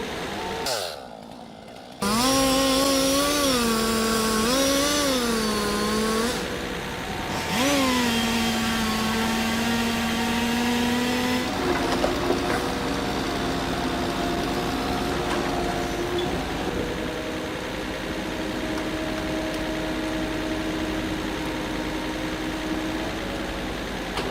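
Engine of tree-cutting machinery revving up and easing off several times. About halfway through it changes suddenly to a steadier engine drone.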